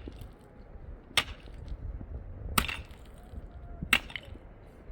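Axe chopping wood: three sharp, evenly spaced strikes about a second and a half apart.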